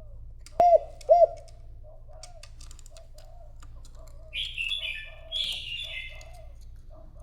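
Spotted dove cooing: short soft coo notes repeating about twice a second, with two much louder coo notes about half a second apart near the start. From about four to six seconds, a higher chirping from another bird joins in over the cooing.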